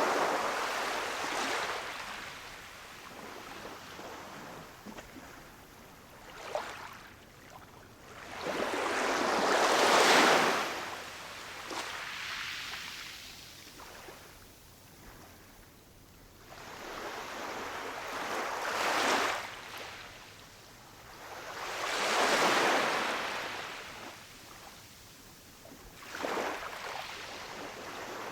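Ocean surf: waves break and wash in, each surge swelling and then fading, about six in a row at uneven spacing of a few seconds.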